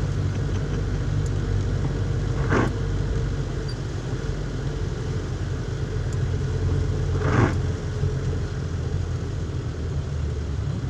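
Car interior road noise: a steady low engine and tyre drone while driving, with two brief whooshes about five seconds apart.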